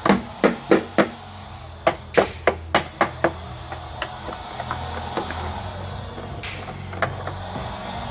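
Hard knocks and taps from toy repair tools and a toy car being worked on: about a dozen sharp, irregular knocks in the first three seconds, then a few faint taps over a steady low hum.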